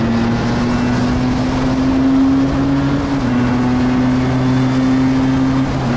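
125cc two-stroke motorcycle engine pulling at high revs. The pitch climbs slowly, drops a step about three seconds in as it shifts up, then climbs again.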